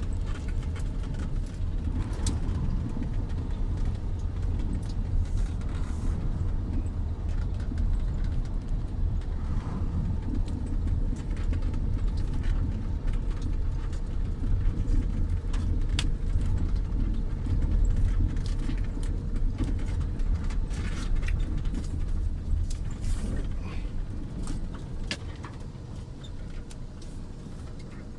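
Storm wind buffeting the microphone: a heavy, steady low rumble with scattered sharp clicks, easing near the end.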